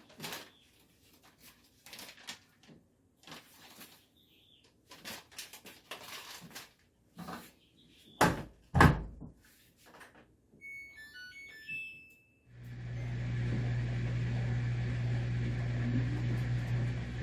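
Soft kitchen clatter and two loud thunks, like a door shutting, then a short run of keypad beeps, after which a microwave oven starts running with a steady electrical hum.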